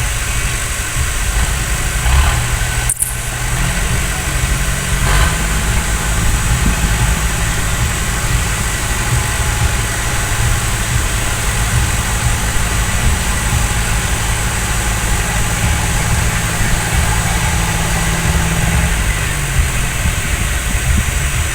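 Tractor diesel engine running at steady speed. It is sped up a few seconds in, holds that speed, and drops back near the end.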